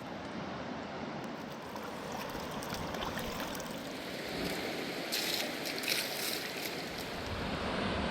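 River water rushing steadily, with a brief louder, hissier patch a little past halfway.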